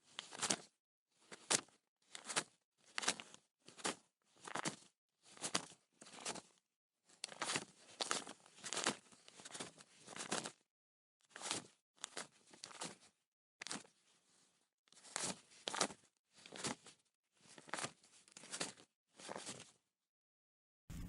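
Paper banknotes counted by hand, each bill flicked with a short, crisp papery rustle, about one to two a second. There is a longer run of quick flicks in the middle.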